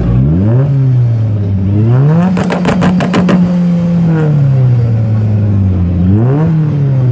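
Turbocharged 2JZ inline-six in a Toyota Supra revving: a quick blip, then it climbs and holds against the two-step launch limiter, popping and cracking rapidly for about a second, before the revs fall away slowly. Another short blip comes near the end.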